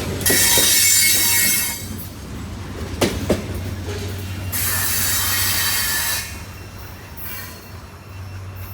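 Blue Ridge Southern train rolling past, its wheels squealing on the rails in two long stretches, near the start and again around the middle. A couple of sharp clanks come about three seconds in, over a steady low rumble.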